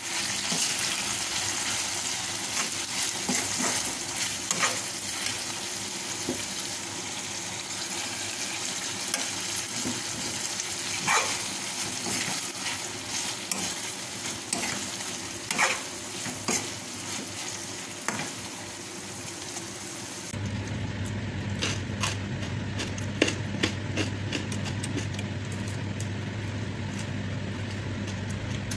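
Chilli and petai sambal sizzling as it fries in oil in a wok, with a metal spoon scraping and clicking against the pan as it is stirred. About 20 seconds in, the sizzle gives way to a steady low hum with frequent sharp clicks.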